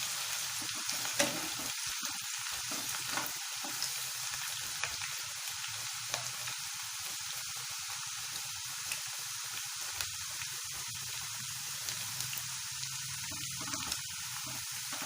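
Chopped onions with whole spices frying in hot oil in a pan, sizzling steadily on their way to light golden, with scattered crackles and one sharper click about a second in.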